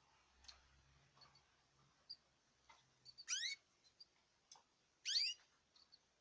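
Caged birds calling: two short, loud rising calls about three and five seconds in, with faint soft chirps and clicks between them.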